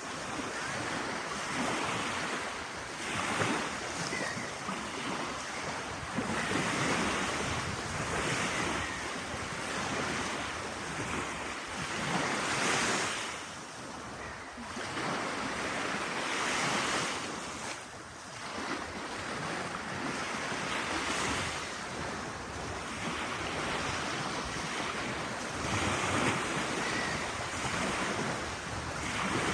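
Baltic Sea waves breaking and washing in, swelling and falling every few seconds, with wind buffeting the microphone.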